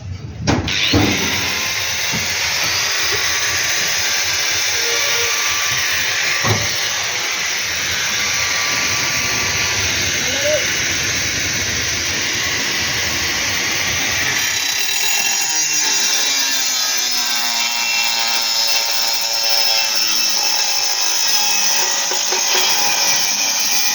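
A power tool running continuously with a steady, harsh noise. About halfway through the deep part of the sound falls away, leaving a thinner noise with a faint wavering whine.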